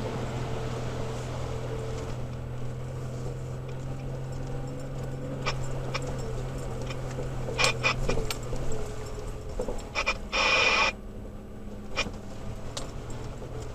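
Toyota Tacoma pickup driving a rough off-road trail: a steady low engine hum that fades after about seven seconds, scattered knocks and clicks, and a short harsh scrape about ten seconds in.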